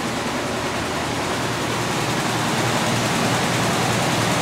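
1937 Cadillac's flathead V8 engine idling steadily.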